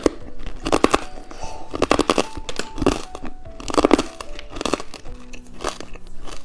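Close-miked crunching of a hard-candy rainbow lollipop being bitten and chewed, a cluster of crisp cracks about once a second, over soft background music.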